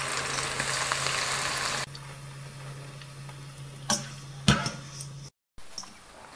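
Flour-dusted onion rings deep-frying in hot fat, a steady sizzle that drops to a quieter level about two seconds in. Two sharp clicks come around the four-second mark, and the sound cuts out briefly near the end.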